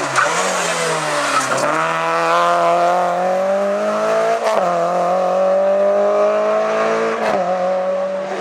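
Hillclimb race car engine pulling hard uphill through the gears: the pitch climbs steadily, then drops at upshifts about a second and a half, four and a half and seven seconds in. The last two shifts each come with a short sharp crack.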